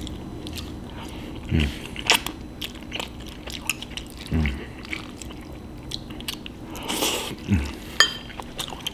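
Close-miked eating of Kraft macaroni and cheese: chewing with many small wet mouth clicks, and a brief rush of hissy noise about seven seconds in.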